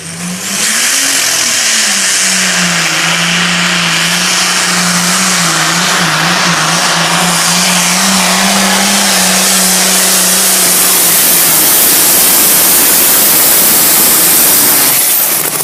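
A pulling tractor's engine at full throttle hauling the sled. It revs up in the first second, then labours under the load with a wavering pitch and a loud roar, and drops away sharply near the end as the pull stops.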